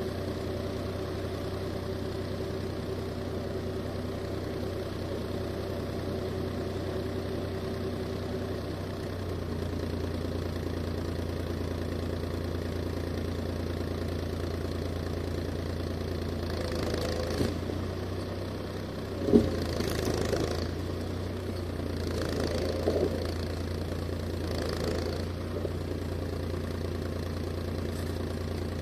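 Steyr 540 tractor engine running steadily at a low, even speed; about nine seconds in its note shifts and it gets slightly louder. A few knocks and clatters come between about 17 and 25 seconds in, one sharp knock about 19 seconds in.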